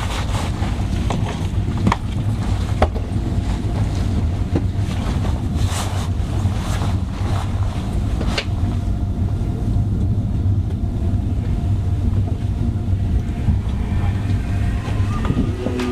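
Cabin noise of an ICE 3 high-speed train rolling along, a steady low rumble with a few sharp clicks and knocks from the running gear.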